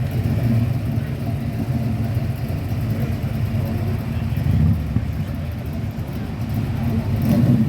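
Car engine running with a steady low rumble, swelling louder twice, about four and a half seconds in and near the end.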